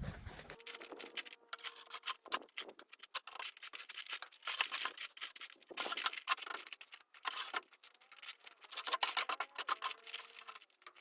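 Rapid, irregular scraping and gritty clicking of a hand tool working through wet cement mortar mix.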